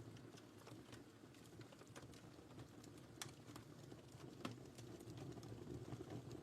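Faint fire crackling in a fireplace: a soft steady rustle of flames with frequent small sharp pops and snaps.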